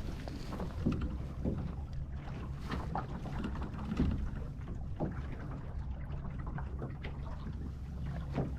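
Wind rumbling on the microphone and water slapping against a sailing dinghy's hull, with irregular splashes and knocks every second or so.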